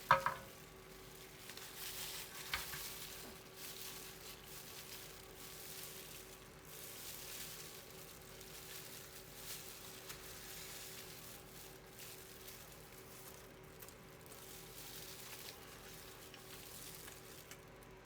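Pork sizzling as it cooks, a quiet crackling hiss over a faint steady hum. A ringing metal clink comes right at the start and a smaller tap a couple of seconds in.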